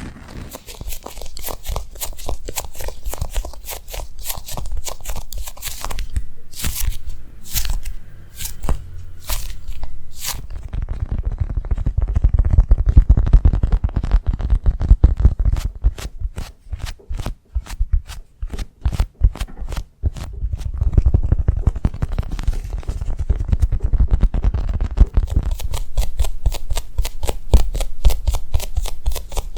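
Rapid ASMR tapping and scratching close to the microphone: a dense run of small clicks with a deep low rumble under them. In the middle stretch the taps fall into a more even, spaced rhythm.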